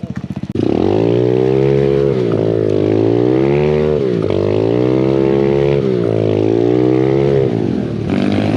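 Motorcycle engine being ridden hard, its pitch climbing and dropping back about four times as the throttle is worked, then easing off shortly before the end.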